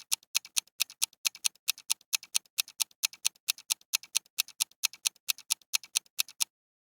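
Clock-style ticking of a quiz countdown timer sound effect, about four ticks a second, stopping abruptly near the end.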